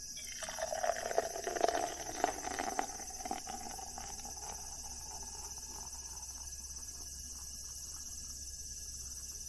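A cold drink poured into a cup, splashing irregularly at first. The pitch of the pour rises steadily as the cup fills, fading out about six seconds in.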